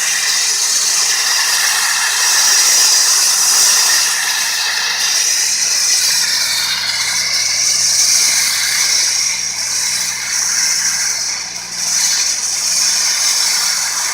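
Dustless blaster's nozzle hissing steadily as it sprays glass-particle abrasive to strip paint off a truck's body, over a motor running steadily underneath.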